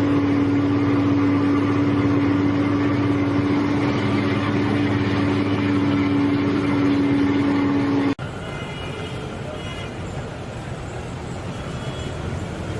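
Loud vehicle noise with one steady tone held for about eight seconds. It then cuts suddenly to a different, rougher vehicle noise.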